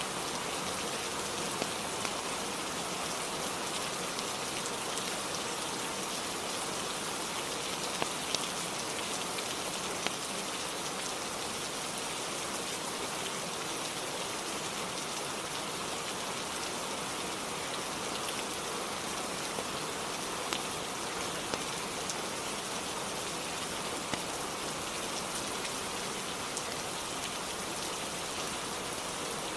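Steady, dense rainfall on a roof, an even hiss, with a few isolated sharp ticks scattered through it.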